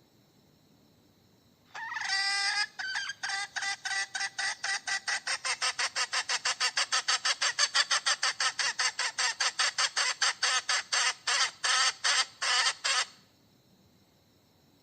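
Domestic hen cackling: a longer opening note, then a long run of rapid short, sharp notes at about four a second, slowing slightly before it stops abruptly.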